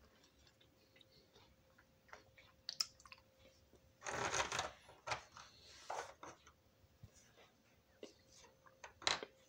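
Close-up mouth sounds of a person chewing a pretzel-shaped sugar cookie: scattered wet clicks and smacks, with a louder hissing burst of about half a second about four seconds in.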